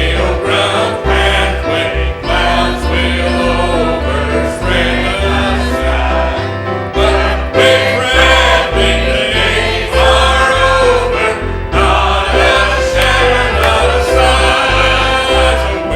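Church choir singing a gospel hymn with instrumental accompaniment and a strong bass line.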